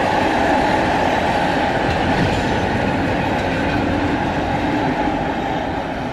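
Freight train rolling past, its wagons giving a steady rumble of wheels on rail that begins to fade near the end.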